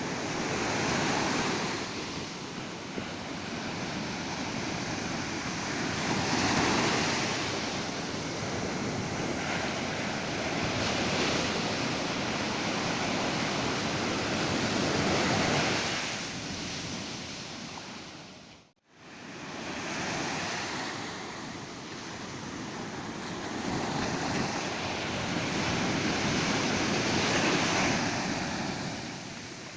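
Ocean surf breaking on a beach, the wash of waves swelling and fading every few seconds. The sound drops out briefly about two-thirds of the way through, then fades back in.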